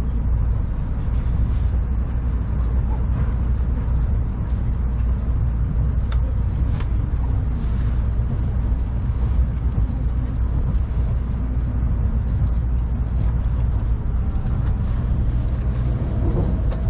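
Tokaido Shinkansen train running, heard from inside the passenger car: a steady low rumble with a few faint clicks about six seconds in.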